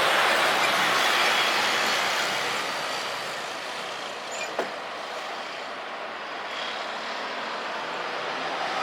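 Steady rushing engine noise that is loud at first and eases off after about two seconds, with one short click about four and a half seconds in.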